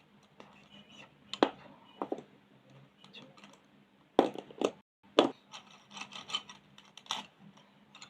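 Colouring pens and pencils on paper: irregular sharp clicks and knocks with scratchy strokes between them. The loudest knocks come about one and a half, four and five seconds in.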